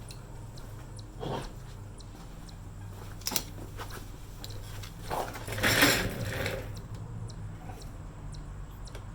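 Light handling of a tape measure and metal parts: a sharp click about three seconds in, and a short rattling scrape near six seconds, which is the loudest sound. A low steady hum runs underneath.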